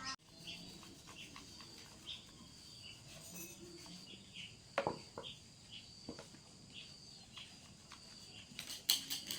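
Insects droning steadily with scattered short bird chirps. A sharp click or knock sounds about five seconds in, and a few more near the end.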